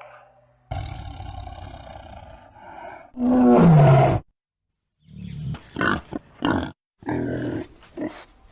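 A big cat roaring and growling: a rough growl, then a loud roar falling in pitch a few seconds in, followed by a run of short grunts.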